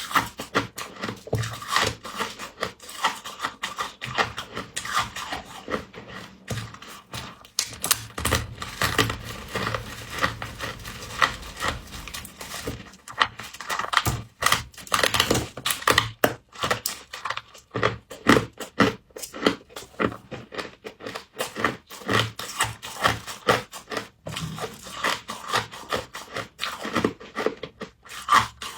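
Close-miked crunching and chewing of frost: dense, irregular crackling bites and grinding.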